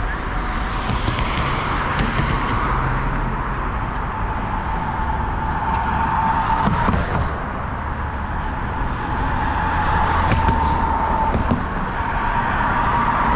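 Road traffic: cars passing one after another, each a swell of tyre and engine noise that rises and fades over a couple of seconds, over a steady hum.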